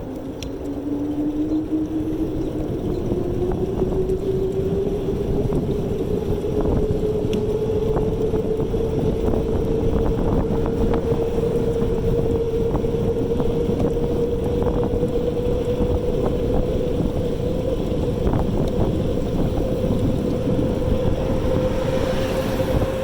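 Electric bike motor whining as the bike picks up speed, its pitch rising over the first few seconds and then holding nearly steady while riding, over low wind rumble on the microphone and road noise.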